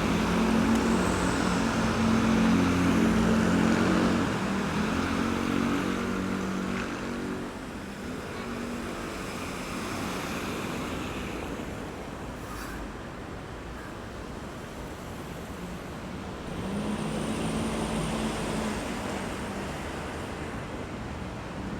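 Roadside traffic at a roundabout: a vehicle's engine hums loudly through the first several seconds and fades, with tyre noise from passing cars throughout. A second engine passes near the end.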